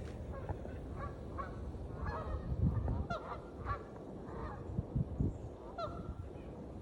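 Canada geese honking repeatedly, short calls following one another and sometimes overlapping, over a steady low rumble. There are a few low bumps near the middle and later on.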